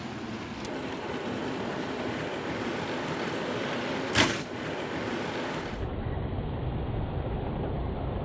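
Model trains running on a Hornby layout: a steady rolling rumble and whirr of motors and wheels on the track, with one sharp clack about four seconds in. About six seconds in the sound turns duller and lower.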